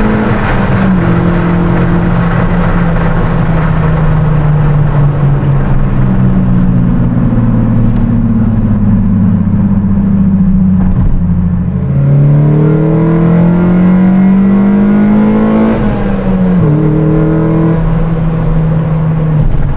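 1997 VW Golf MK3 GTI's naturally aspirated 2.0-litre four-cylinder engine, heard from inside the cabin with road noise. The engine pitch sags slowly for about twelve seconds, then climbs steadily as the car accelerates, drops at an upshift about sixteen seconds in and holds steady.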